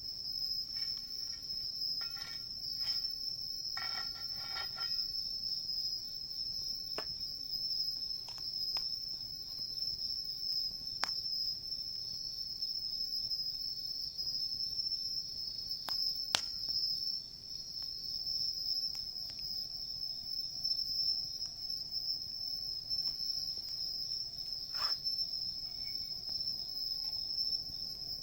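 Crickets singing in a steady, high-pitched chorus, with a few sharp pops from the wood fire crackling.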